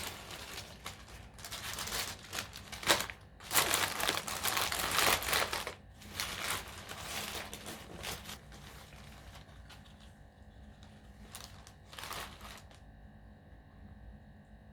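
Food packaging being crinkled and torn open by hand, in rustling bursts that are loudest in the first half, followed by lighter handling rustles and one short crinkle later on.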